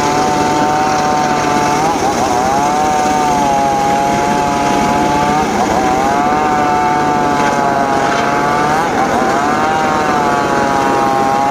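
Homemade circular saw rig running as it cuts teak wood, a high steady whine whose pitch sags briefly and recovers about every three to four seconds as the blade bites into the wood.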